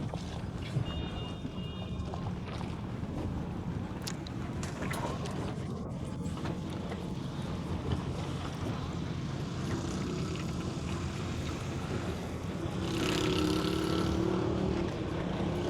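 A vehicle engine running steadily, heard from on board, with its note getting louder about two-thirds of the way through.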